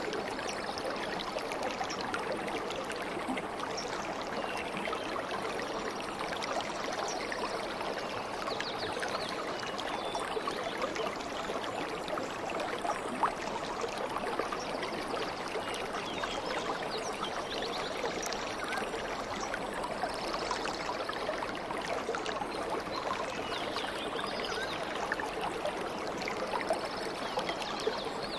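A stream of running water babbling steadily, with faint high bird chirps here and there.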